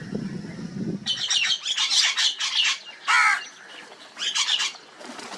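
Crows calling with harsh, squawking caws. A rapid run of calls starts about a second in, followed by a loud single call and another a second later. A low sound is heard in the first second.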